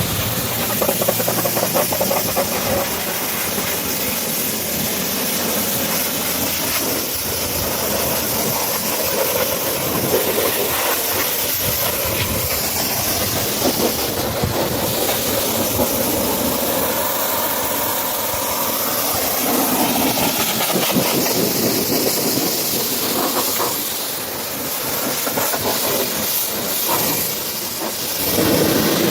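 Pressure-washer spray hissing steadily against the truck's bodywork, with a brief lull near the end.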